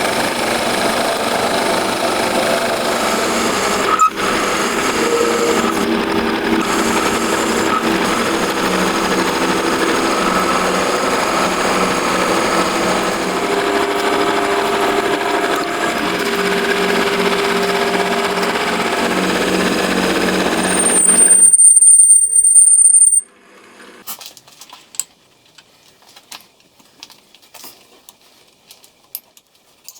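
A power tool running steadily and loudly on metal work for about twenty seconds. It ends in a very loud high whine for about two seconds, then cuts off abruptly, leaving light scattered clicks and taps of handling.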